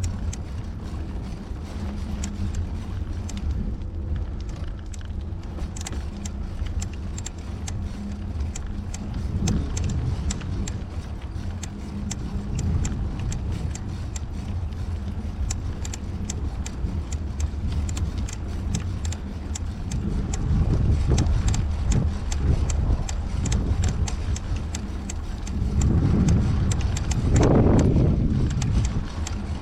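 Wind rumbling on a bike-mounted action camera's microphone while riding, with many small rattles and clicks from the bicycle. The rush swells louder about two-thirds of the way in and again near the end.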